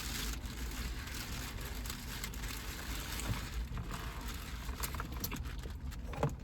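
Close-miked eating sounds: chewing on a sandwich, with many small wet clicks and crackles.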